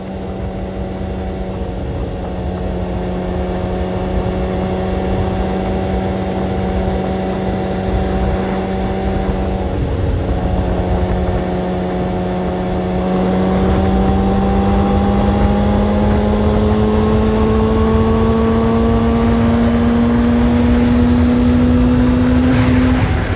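Motorcycle engine running under way at steady revs, with a brief break in the engine note about ten seconds in, like a gear change. After that the revs climb slowly until another break near the end, over a steady low rumble.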